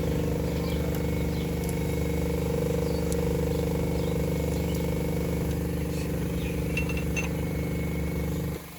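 Toyota Corolla GLI engine running steadily, then switched off, the sound cutting out abruptly near the end. A few faint light ticks show just before it stops.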